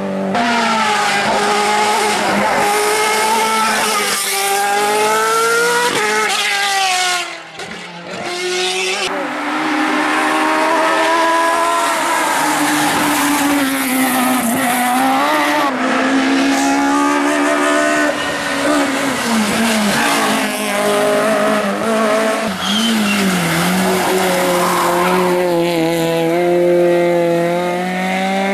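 Hill-climb race car engine revving hard, its note rising and falling repeatedly as it is driven through the gears and corners, with a sudden drop and brief lull about seven seconds in. A steady low hum runs underneath.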